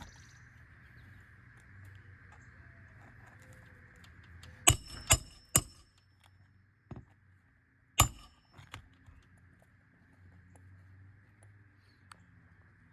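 Hammer striking a roof snake to drive roofing nails under a shingle: three quick metallic strikes about half a second apart, then a single harder strike a few seconds later, each with a brief ring.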